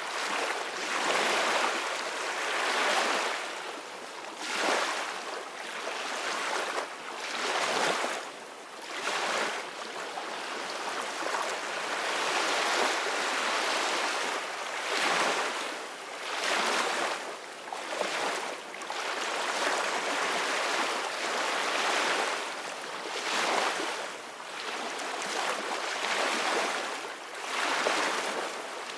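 Ocean surf washing in, a continuous hiss of water that swells and falls every second or two.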